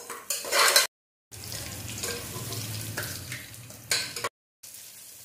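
Onions, curry leaves and green chillies sizzling in hot oil in a pressure cooker, stirred with a steel spoon that scrapes the pot loudly about half a second in and again near four seconds. The sound drops out twice for a moment.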